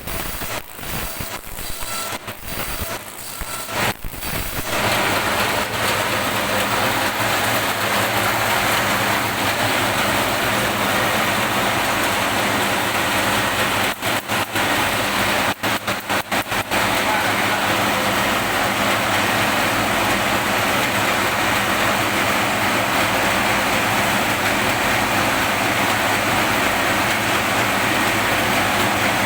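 Bamboo stick slicing and rounding machine running with a steady, dense whirr over a low motor hum. It is choppy for the first few seconds and cuts out briefly a few times about halfway through.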